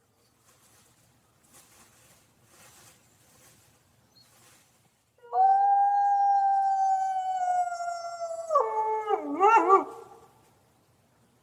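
Coyote howling: after a quiet start, one long held note comes in about five seconds in and sags slightly in pitch. It then breaks into a quick, wavering, yodel-like warble that dies away about ten seconds in.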